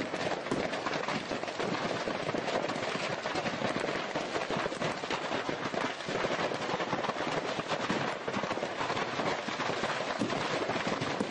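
Firecrackers going off in rapid succession: a dense, continuous crackle of many small sharp pops at a steady level, with no pause.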